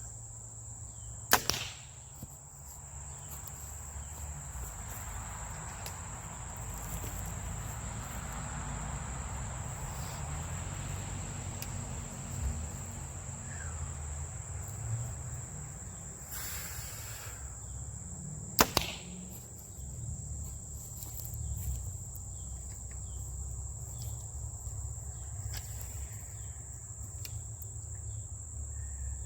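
Two archery bow shots about seventeen seconds apart, each a sharp snap of the released string followed a split second later by the arrow striking the target. A steady high drone of insects, like crickets, runs underneath.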